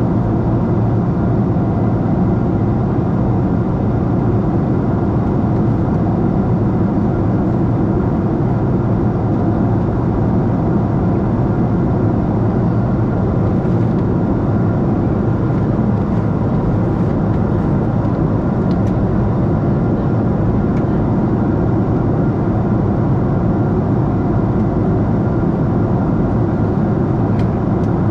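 Steady, unchanging low rumble of a Boeing 747-8 airliner heard from inside the cabin: engine and airflow noise.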